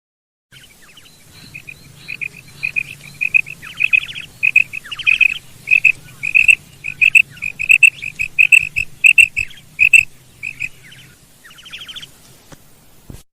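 Female quail calling: a quick series of short high chirps, two or three a second, broken by a few harsh rattling trills, starting about half a second in.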